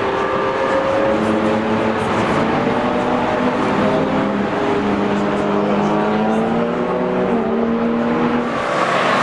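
Several car engines running at speed on a race track, each at its own pitch, rising and falling as they accelerate and lift off. The sound changes abruptly near the end.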